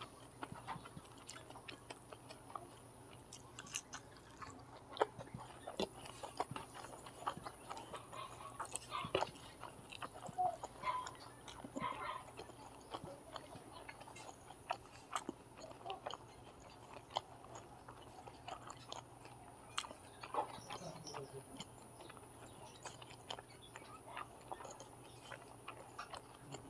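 A person chewing soft fried egg and noodles close to the microphone: irregular soft clicks and smacks of the mouth, over a faint steady hum.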